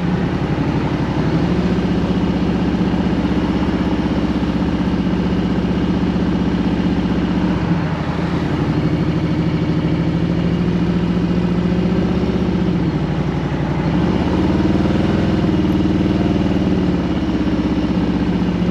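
2021 Harley-Davidson Road Glide Special's Milwaukee-Eight 114 V-twin running at low revs while rolling at about walking pace, its pitch rising and falling as the throttle is eased on and off, with a dip about eight seconds in.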